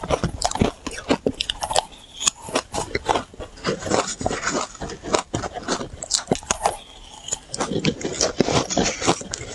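Close-up bites and chewing of powdery shaved ice: a dense run of crisp, irregular crunches and crackles.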